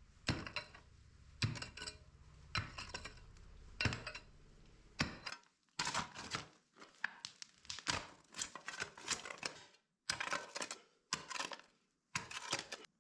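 Irregular sharp clinks and knocks of hard objects. At first they come about once a second over a low hum; from about halfway they come quicker and in clusters, and they cut off abruptly at the end.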